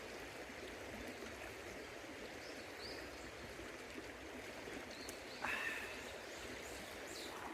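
River water running steadily over stones, with a few faint high chirps, and one short sharp ringing sound about five and a half seconds in.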